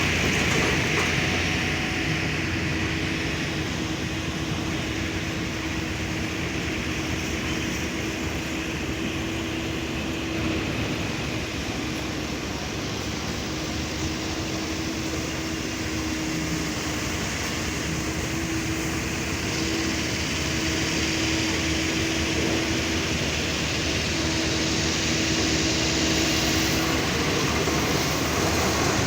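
Heavy diesel engine of quarry loading machinery running steadily under load, with a held drone.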